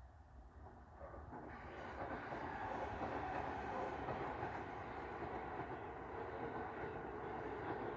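Electric commuter train running alongside a station platform. Its rumble builds up from about a second in and then holds steady, with faint wheel clatter.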